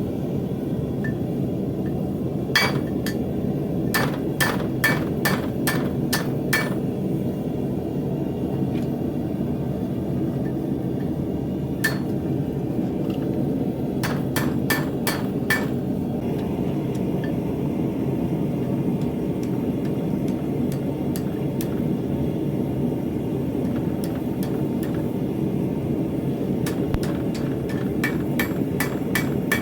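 Hammer striking steel on an anvil in short runs of blows, about two a second, each with a brief metallic ring. A steady low rushing noise runs underneath.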